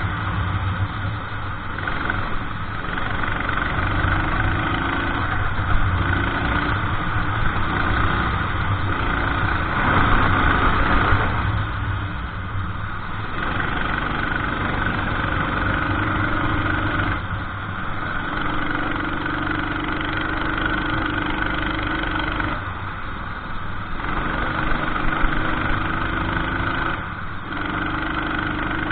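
Racing kart engine running hard through laps. Its note holds steady for stretches of several seconds, then drops off briefly several times as the kart lifts off for corners.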